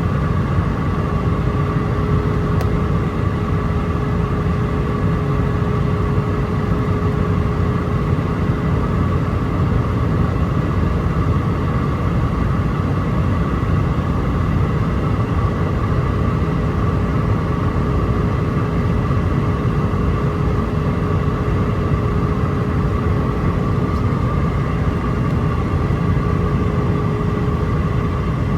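Steady cabin noise inside an Airbus A319 on final approach: a low rumble of engines and airflow with a steady hum on top, which drops out briefly near the end.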